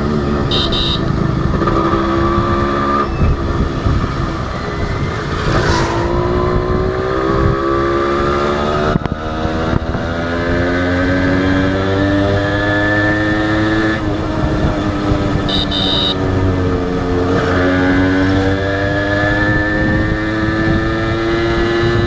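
Honda H100S two-stroke single-cylinder motorcycle engine running under way, its pitch climbing as it accelerates and dropping sharply at gear changes about six and fourteen seconds in, easing off briefly near seventeen seconds and then climbing again. Two short high-pitched beeps cut in, about a second in and around fifteen seconds in.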